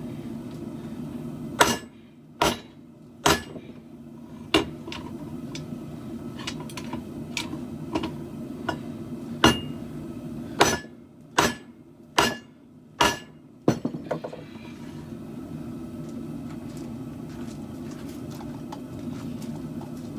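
Hammer blows on steel in katana forging: about ten sharp strikes spaced roughly a second apart in two runs, with lighter taps between them, over a steady low hum. The strikes stop about two-thirds of the way through.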